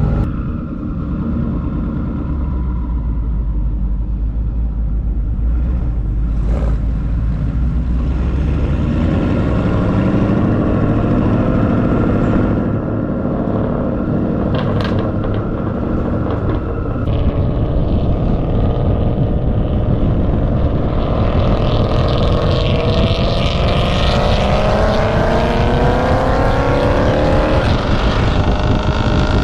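Twin-turbo Ford Mustang engine running at a steady low drone, then pulling hard about two-thirds of the way in, its pitch climbing steadily for several seconds before it breaks off near the end.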